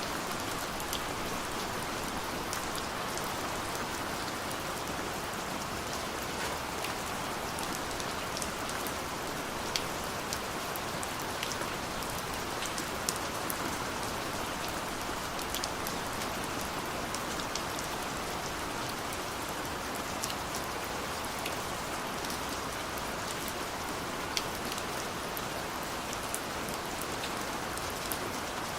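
Steady rain falling, an even hiss with many individual drops ticking sharply on a surface close by.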